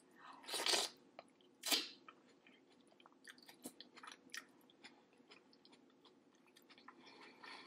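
Close-up, wet chewing and mouth smacking of saucy seafood boil being eaten, with two louder wet bites in the first two seconds, then a run of small sticky clicks.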